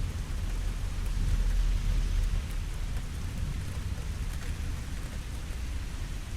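Steady rain falling, with a low rumble of thunder that swells and fades in the first half.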